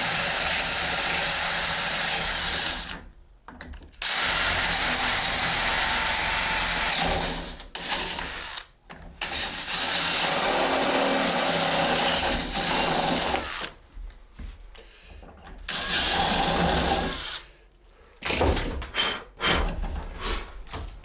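Power drill drilling holes into the ladder through the foot held as a template, run in several spells of a few seconds with short pauses between, and a few short knocks near the end.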